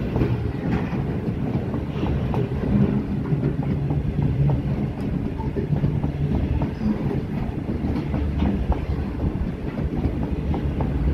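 A freight train's covered hopper wagons rolling past close by: a steady, heavy rumble with the wheels clicking and clacking over rail joints again and again.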